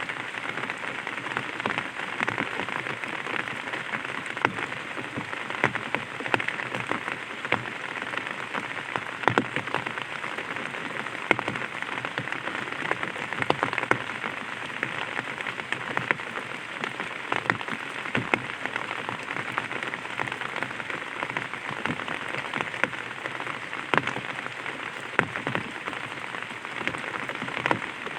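Light rain falling on an umbrella: a steady hiss of rain with many separate sharp drop hits scattered through it.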